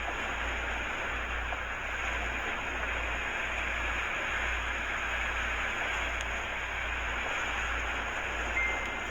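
Hurricane-force wind blowing in a steady rush, with a low rumble that surges and dips as gusts hit the microphone. A brief high tone sounds near the end.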